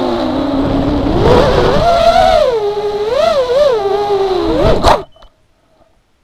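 QAV210 racing quadcopter's motors and propellers whining, the pitch rising and falling with the throttle, then cutting off suddenly about five seconds in.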